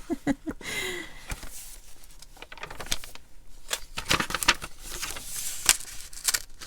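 Paper pages of a handmade journal being handled, rustling and crackling with many short, sharp clicks and taps.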